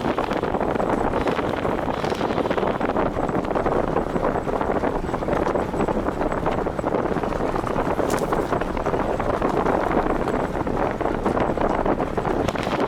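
Steady rush of wind buffeting the microphone over the noise of a vehicle driving at speed.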